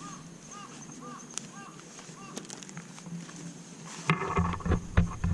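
Short, arched, high-pitched calls repeated about twice a second, from a small animal or bird, stopping about halfway. Near the end a much louder stretch of rumbling and rapid knocks sets in suddenly.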